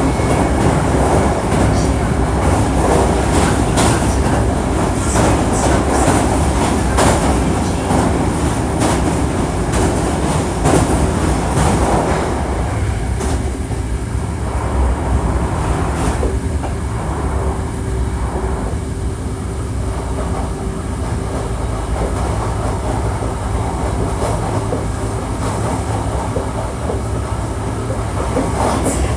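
Interior running noise of a Hankyu 1300 series electric train: wheels rumbling over the track with scattered rail-joint clicks, quieting about halfway through. After that a steady motor tone holds under the rumble.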